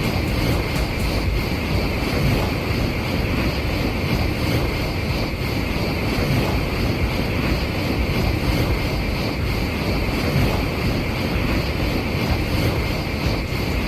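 Shinkansen bullet train passing at high speed: a steady, unbroken rushing noise of wheels on rail and air.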